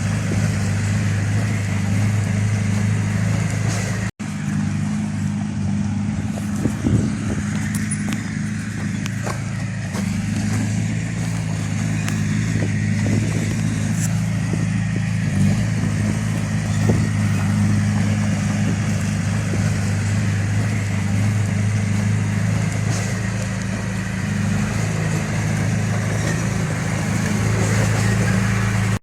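Heavy machine's diesel engine running at a steady speed, cut off for an instant about four seconds in, with a few faint knocks over it.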